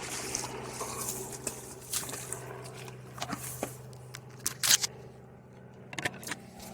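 Scattered clicks, knocks and scrapes of prospecting gear being handled and packed up, the loudest pair of knocks about four and a half seconds in, over a steady low hum.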